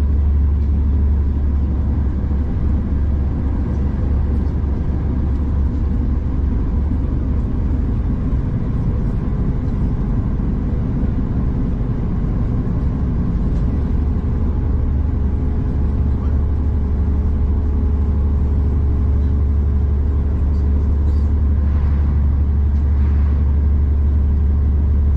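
Steady, loud low drone inside a moving V/Line passenger train: engine and running noise with a few steady hum tones, unchanging throughout.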